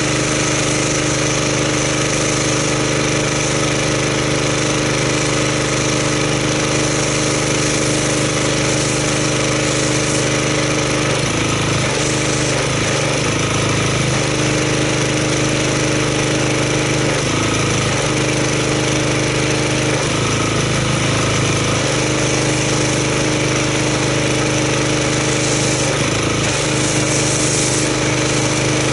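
Gas pressure washer engine running steadily while an MTM foam cannon sprays foam, with a loud hiss of spray over the engine. The engine's pitch dips briefly several times in the second half, as it takes load.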